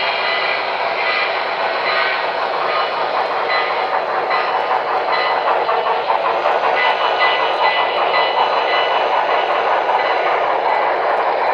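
HO scale model train running, a steady train sound with faint steady tones, growing slightly louder and busier from about five seconds in.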